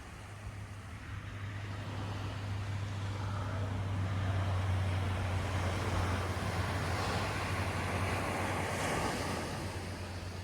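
Ocean surf: a wave rushes in, swelling over the first few seconds and easing off near the end, with a steady low hum underneath.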